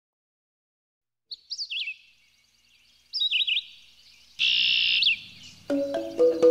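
Bird chirping: a few quick up-and-down chirps a second or two apart, with a harsher buzzy call about four and a half seconds in. A melodic music track with stepping notes comes in near the end.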